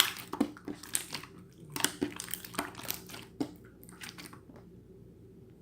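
Pearl slime being squished and pressed by hand, giving a dense run of crackling, popping clicks that thins out after about four and a half seconds.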